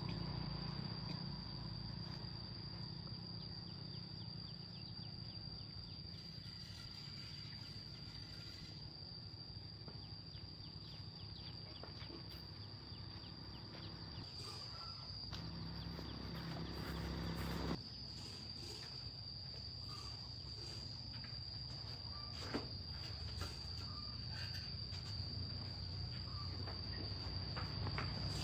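Insects chirring in one steady, unbroken high drone over a faint low rumble, with a few light clicks.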